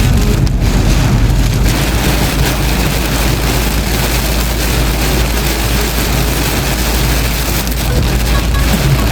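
Heavy rain beating steadily on a moving vehicle, over a constant low road and engine rumble.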